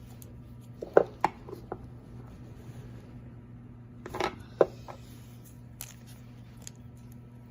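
Metal sockets and hand tools clinking as they are picked through: a few sharp clicks about a second in and another cluster about four seconds in, over a steady low hum.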